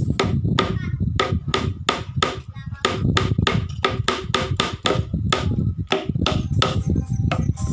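Rapid hammer taps, about four a second and somewhat uneven, over background music.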